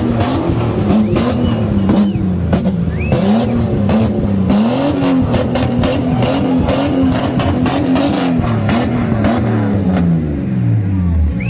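Car engine revving again and again, its pitch rising and falling, then dropping away near the end, with many sharp cracks through the revs.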